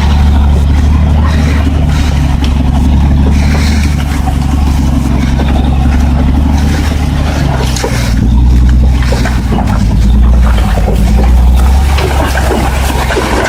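Heavy diesel truck engine running with a loud, low drone, its pitch shifting slightly about eight seconds in, with scattered knocks and rattles over it.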